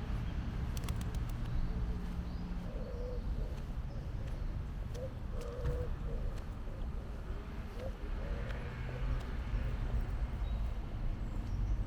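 A pigeon cooing in short repeated phrases, three runs of them from about three seconds in, over a steady low background rumble.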